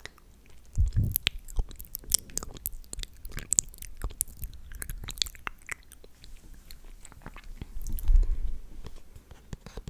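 Close-miked ASMR mouth sounds: rapid wet, sticky clicks and smacks, thick for the first several seconds and sparser later. A dull low thump about eight seconds in is the loudest moment.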